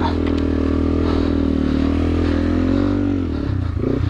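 2009 Yamaha TW200's single-cylinder four-stroke engine running under steady throttle while being ridden. The engine note drops a little past three seconds in, then picks back up near the end.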